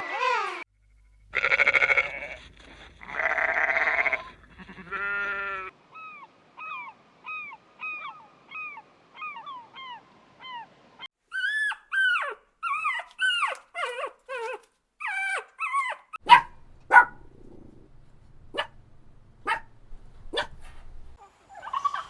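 A succession of animal calls: two bleats in the first few seconds, then a fast pulsed call, then a long run of short repeated chirping calls, and several sharp short calls near the end.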